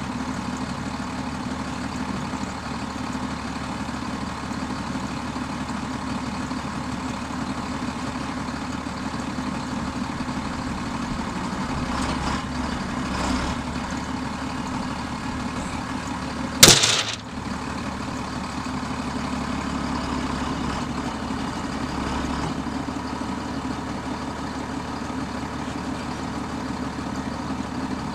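Tractor diesel engine running steadily at idle. About two-thirds of the way through there is one sharp, loud clack.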